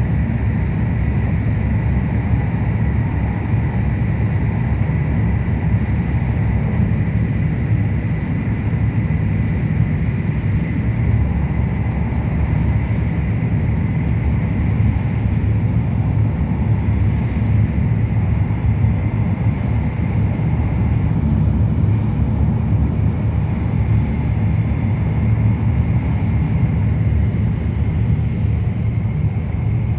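Tohoku Shinkansen bullet train running at speed, heard inside the passenger cabin: a steady, even low rumble of wheels on track and air rushing past, with a faint high whine.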